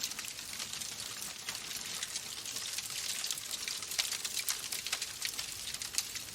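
Wood fire crackling: a steady hiss full of quick sharp pops and snaps, with a few louder pops about four and six seconds in.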